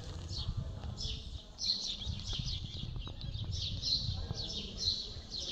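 Small birds chirping, short falling chirps about twice a second, over a low rumble.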